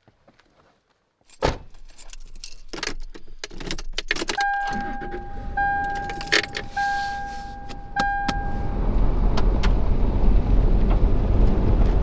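Getting into a pickup truck: a thump about a second and a half in, then clicks and keys jangling. A dashboard warning chime dings four times, about a second apart, and the truck's engine runs, growing louder near the end.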